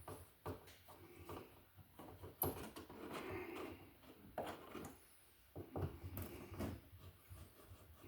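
Faint handling noises of electrical work on a wall receptacle and its wires: scattered small clicks, taps and rustles.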